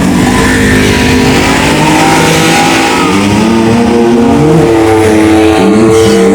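Several dirt bike engines revving together, their pitches rising and falling and overlapping.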